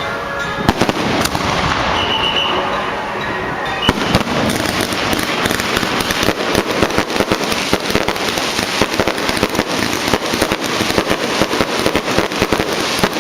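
Firecrackers going off: a few separate bangs, then a dense, rapid crackle of reports from about four seconds in.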